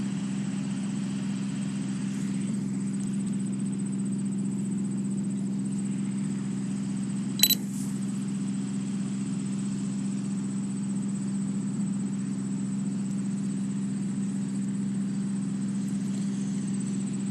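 A steady, unchanging mechanical hum, engine-like, with one brief high electronic blip about seven and a half seconds in.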